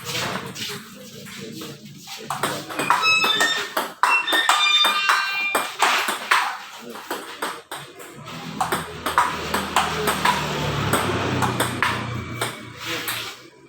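Table tennis rally: the plastic ball clicking sharply off bats and table in quick, irregular succession.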